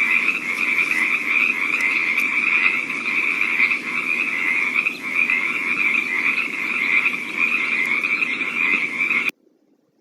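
Frogs croaking in a steady, dense chorus, loudest in a high band, that stops abruptly near the end.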